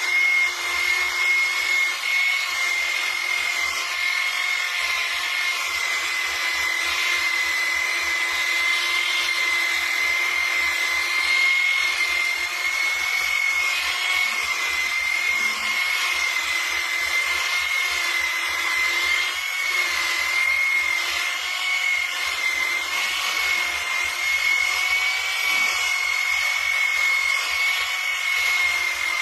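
Small high-speed electric power tool running steadily with a constant high-pitched whine over a rushing hiss.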